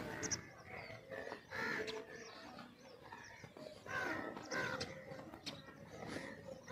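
Several birds calling, with a few louder, harsh calls about one and a half, four and four and a half seconds in, over sharper chirps.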